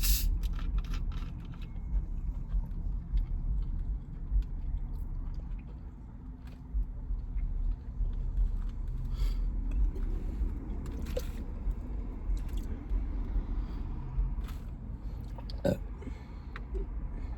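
Close-up eating sounds: a Subway sandwich being bitten and chewed, with scattered small crunches and clicks over a steady low rumble.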